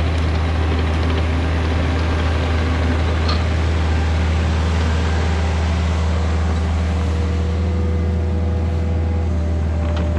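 Kubota excavator's diesel engine running steadily, a constant low hum with no change in speed.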